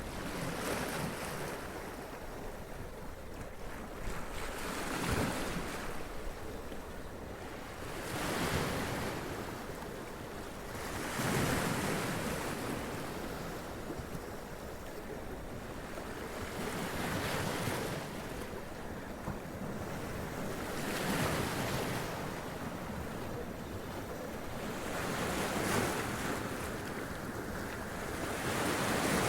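Sea waves splashing against rocks and running up them, a surge of spray every three to four seconds over a steady wash of surf.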